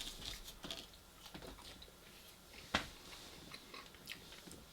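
A person chewing and biting food close to the microphone: faint, scattered mouth clicks and smacks, with one sharper click nearly three seconds in.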